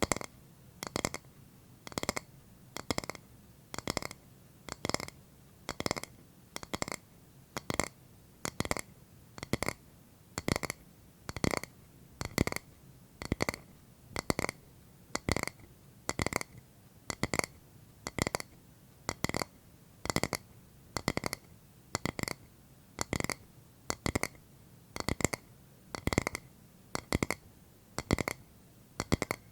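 Tapping on a hard object in a slow, even rhythm: a quick double tap about once a second, each with a short ringing note.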